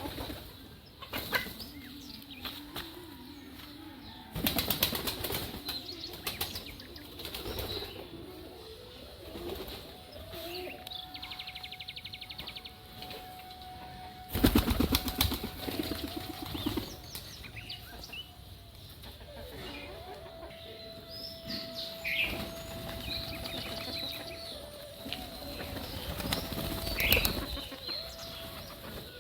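Birds' wings flapping in three loud bursts of rapid beats, with short bird calls and chirps in between.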